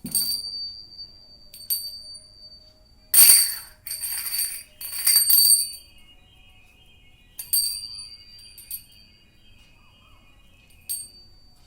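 A small metal bell, like the jingle bell in a cat toy, jingling in short, irregular shakes and ringing on briefly after each, busiest in a run of three jingles about three to six seconds in.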